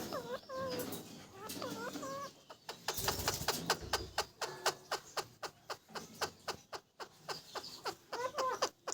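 Parrot making short swooping calls, then a long run of sharp clicks at about four a second, with a few more swooping calls near the end.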